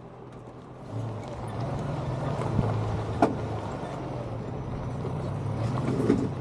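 Nissan Xterra's engine running under load, getting louder about a second in, with a few sharp knocks as the truck and trailer work over rocky desert ground.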